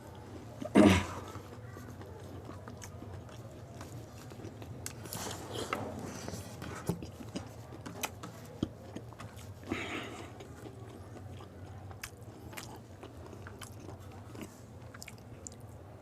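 Crisp pani puri shells being bitten into and chewed, with one loud crunch about a second in, then softer chewing with scattered small crunches and clicks.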